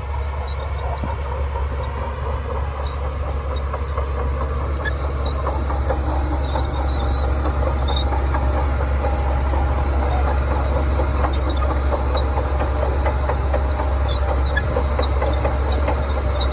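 Shantui DH17C2 crawler bulldozer working: its diesel engine runs steadily with a low hum under a continuous clatter of the steel tracks, growing slightly louder about five seconds in.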